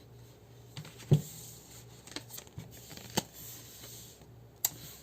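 Tarot cards being handled in a small room: a few light taps and flicks, the sharpest about a second in, over a faint low hum.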